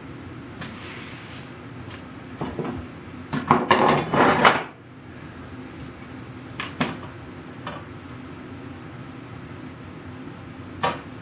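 Small hard objects handled on a workbench: scattered clinks and knocks, with a louder cluster of clattering for about a second near the middle.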